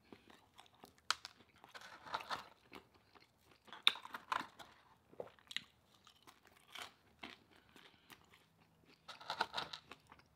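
A man chewing food close to the microphone: irregular wet crunches and clicks of the mouth, with louder bouts of chewing about two, four and nine seconds in.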